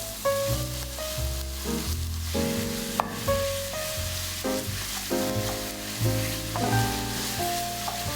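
Food frying and sizzling in a pan, a steady hiss under background music of keyboard chords and a bass line.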